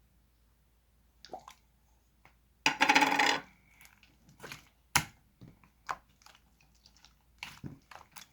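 Slime being handled, with a scatter of sharp clicks and pops and a short loud rattle about three seconds in.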